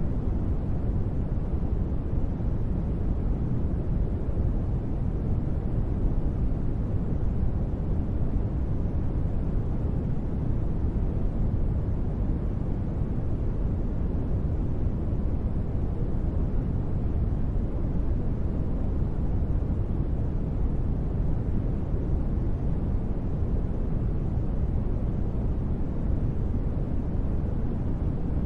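Steady, unchanging noise ambience, deep and bass-heavy with little hiss on top, of the kind played for sleep and relaxation. It has no breaks, beats or distinct events.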